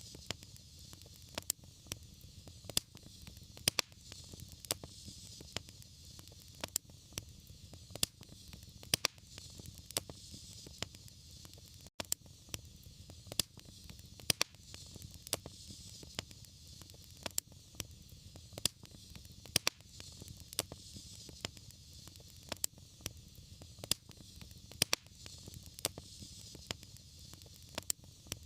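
Wood fire crackling in a fireplace: irregular sharp pops and snaps, one or two loud ones a second among many smaller ones, over a steady low rumble and hiss of the burning.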